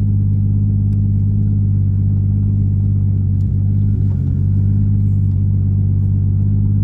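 Nissan Skyline R33's turbocharged RB30DET straight-six running steadily at an even, low engine speed, a constant deep rumble with no revving.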